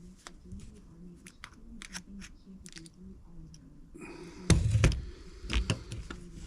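Small clicks and taps of hands handling a small-engine carburetor and its parts, with a louder knock and clatter about four and a half seconds in, over a faint low hum.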